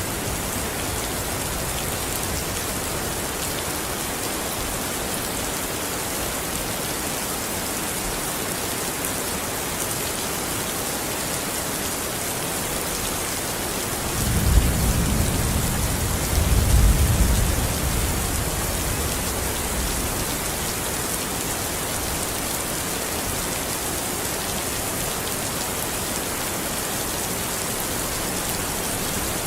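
Steady rain falling, an even hiss throughout. About fourteen seconds in, a low rumble of distant thunder swells for a few seconds and fades.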